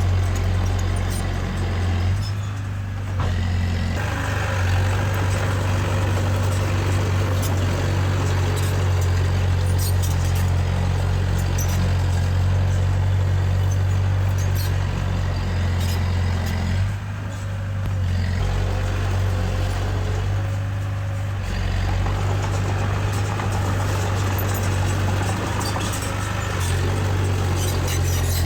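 Heavy diesel engine of earthmoving machinery running steadily with a deep hum, its note dropping away briefly three times: about two seconds in, and twice more past the middle.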